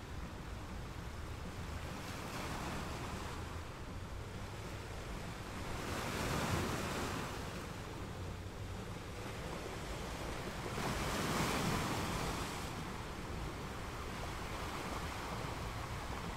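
Gentle ocean waves in a steady wash, with two waves swelling louder and breaking, about six and eleven seconds in.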